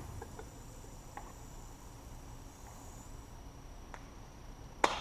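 A few faint clicks and taps of small parts and a screwdriver being handled, with one sharp click near the end. A faint high-pitched steady tone fades out about three seconds in.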